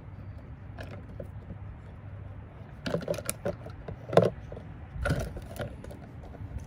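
Plastic jar being handled as a banana peel is pushed into it: a cluster of clicks and knocks about halfway through, the loudest one a second later, and a few more shortly after.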